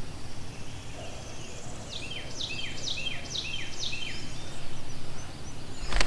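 A songbird singing a run of about six quick slurred whistled notes, roughly two a second, starting about two seconds in, over a steady low background rumble.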